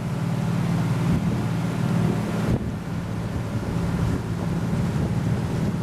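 Wind buffeting the microphone over the steady low drone of a motor yacht's engines under way.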